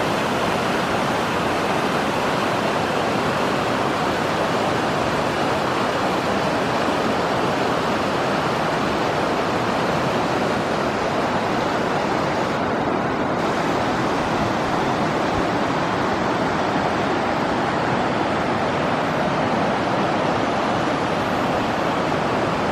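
Steady, unbroken rush of water, even and loud with no separate drops or splashes standing out.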